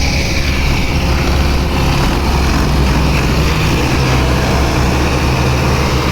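Sonalika DI 55 tractor's diesel engine running hard and steady, with a constant low drone.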